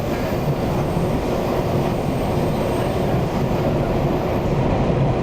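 Taiwan Railways EMU800 electric multiple unit running, heard from inside the carriage: a steady rumble of wheels on rail.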